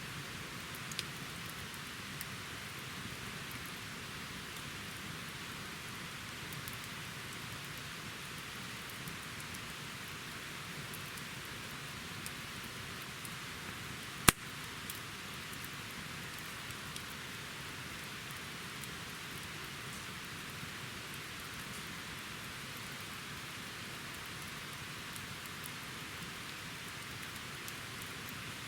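Wood campfire burning with a steady hiss and scattered small crackles, and one loud sharp pop about halfway through.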